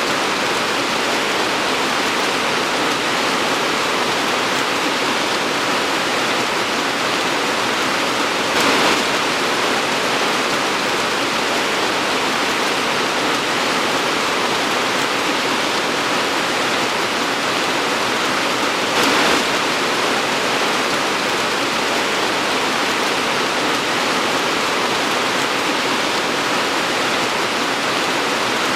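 Torrential rain falling in a steady, dense hiss, with two brief louder swells about 9 and 19 seconds in.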